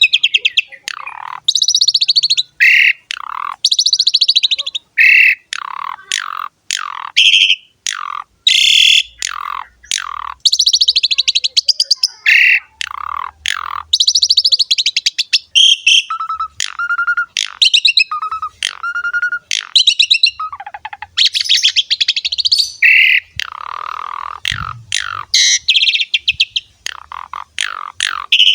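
Asian pied starling (jalak suren) singing non-stop: a fast, varied run of sweeping whistled notes, rapid rattling trills and harsh chattering notes, with only short gaps between phrases.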